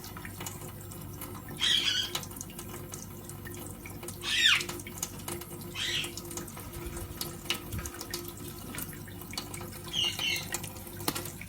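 Tap water running into a kitchen sink with small splashes as Indian ringneck parrots bathe in it, and four short parrot calls, the loudest about four seconds in.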